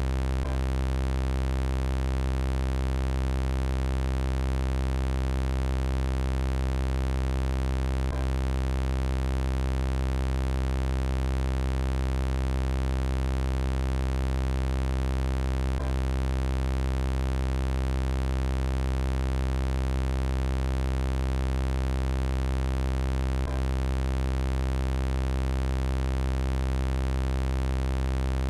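Synthesized robot-voice sound effect: an unchanging electronic buzzing drone made of many steady tones, heaviest in the bass. A faint click comes about every eight seconds where the looped sound repeats.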